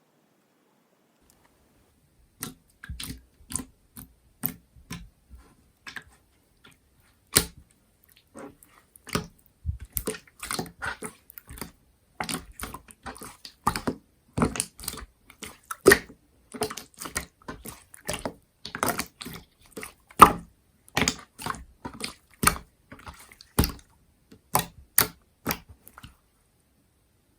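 Slime being pressed and pulled by hand, making a string of sticky wet pops and clicks. They begin sparsely after a couple of seconds and come thick and fast from about ten seconds in.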